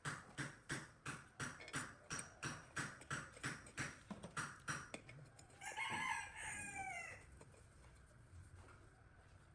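A rooster crowing once, about six seconds in, preceded by a steady run of sharp knocks at about three a second.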